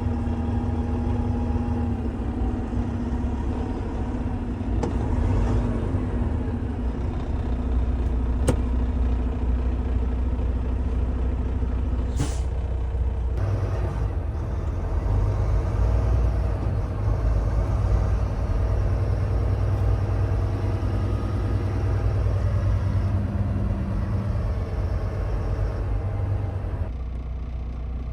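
Semi truck's diesel engine running steadily, with a short sharp hiss of air from the air brakes about twelve seconds in.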